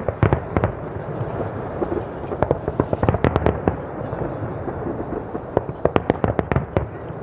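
Fireworks bursting in three quick volleys of sharp bangs: one at the start, one around the middle, one near the end, over a steady background rumble.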